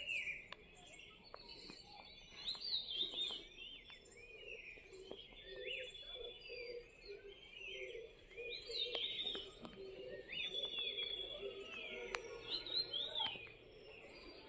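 Many small birds chirping and twittering in quick overlapping calls, with a faint low murmur underneath.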